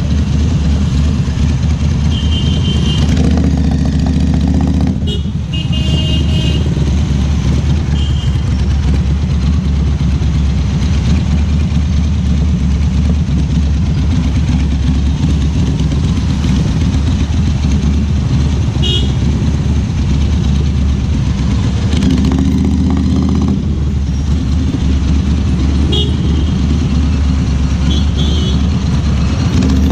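Ducati Scrambler Cafe Racer's air-cooled 803 cc L-twin running loud and steady on the move, with a brief dip in level about five seconds in. Short horn toots from surrounding traffic break in several times.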